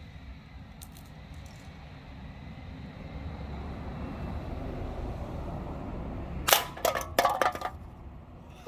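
A cluster of sharp metallic clatters with short ringing about six and a half seconds in: a BB gun shot and the BB knocking aluminum cans set up as bowling pins. Before it there are a couple of faint clicks and a low rumble that builds and fades.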